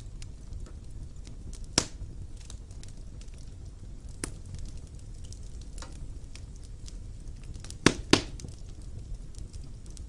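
Wood fire burning in a fireplace: a low rumbling bed with scattered crackles and sharp pops, loudest about 2 s in and a pair near 8 s.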